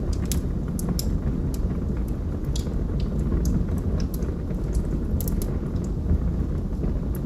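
Log fire crackling: irregular sharp pops and snaps, a few each second, over a steady low rumble of burning.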